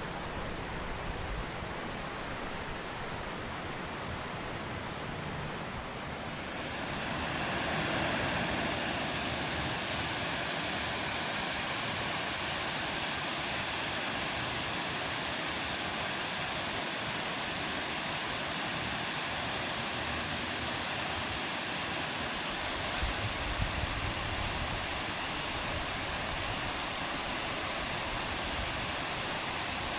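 Steady rush of river water flowing and falling below a dam, an even wash of noise that grows louder and brighter about seven seconds in.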